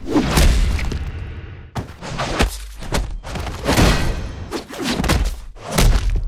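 Heavy, exaggerated fight sound effects: about half a dozen punch and kick impacts, each a sudden hit with a deep booming low end, landing roughly a second apart.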